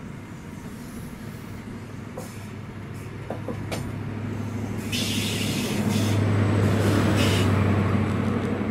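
High Speed Train running past at speed. The coaches' wheels rumble and click on the rail, then the Class 43 power car's MTU diesel engine drone swells to its loudest as the power car passes, late on.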